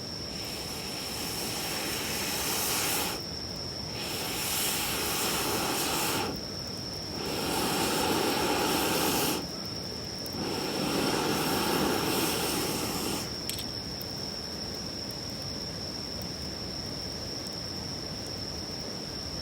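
Four long rushes of air noise, each about two and a half seconds with short pauses between, over a steady high insect trill.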